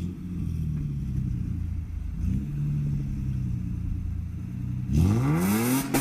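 Car engine idling with a low, steady note, then revved hard about five seconds in, its pitch climbing steeply.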